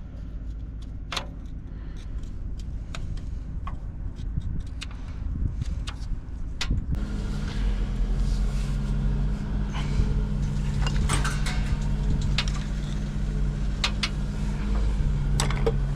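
Engine running steadily, its note growing stronger about seven seconds in, with scattered light metallic clicks over it.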